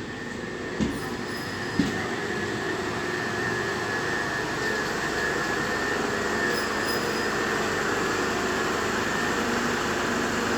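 Class 377 Electrostar electric multiple unit running into the platform, its noise growing steadily louder, with a steady high whine. Two short knocks about one and two seconds in.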